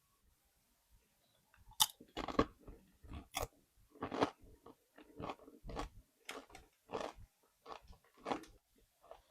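Biting into Doritos tortilla-chip nachos, a sharp crack about two seconds in, then steady crunchy chewing, a crunch every half second or so.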